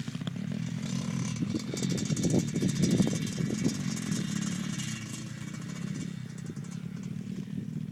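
Dirt bike engine running under throttle, growing louder to a peak about three seconds in, then easing off as it moves away.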